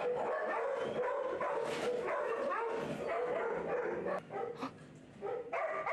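Several shelter dogs barking and whining at once, their calls overlapping into a continuous din that eases off about four seconds in and picks up again near the end.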